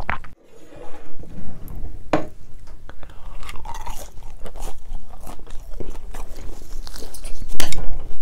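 A person biting and chewing crunchy food, the crunches coming in short, uneven bursts.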